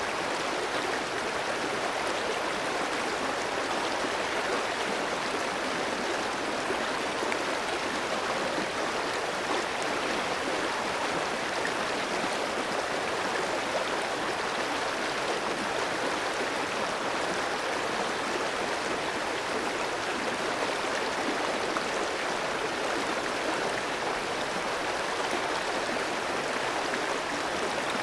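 Clear mountain stream running over rocks: a steady rush and babble of water.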